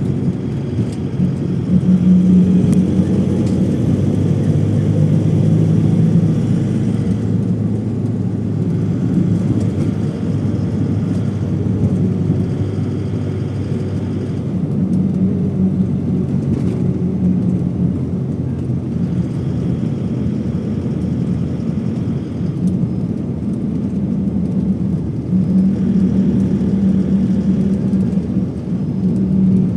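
Steady low drone of a moving vehicle, with a hum that swells and fades every few seconds.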